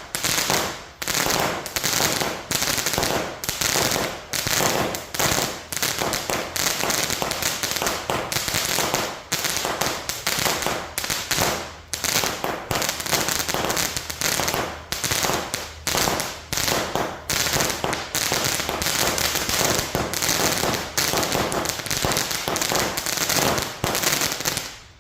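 T-Sky Jewel Strike 200-gram, 100-shot consumer firework cake firing its shots in rapid volleys, several bangs a second with only brief pauses.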